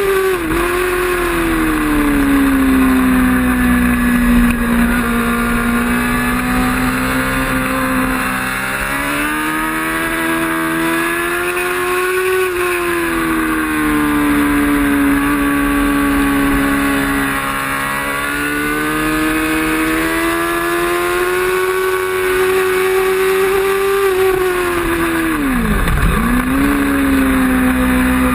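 Racing motorcycle engine held at high revs, its pitch sweeping up and down as the bike moves through the gears and corners, with a sharp drop and recovery about half a second in and again near the end. A steady rush of wind and road noise runs underneath.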